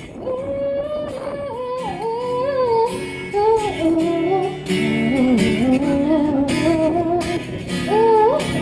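A woman singing a melodic line live to guitar accompaniment, with low wind rumble on the microphone.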